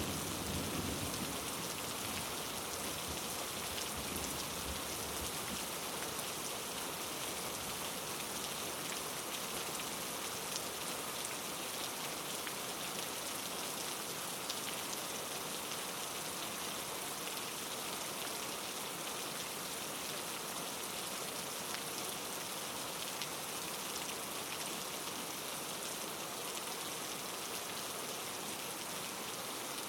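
Steady rain falling: an even hiss of many drops on surfaces. The tail of a low thunder rumble fades out in the first second.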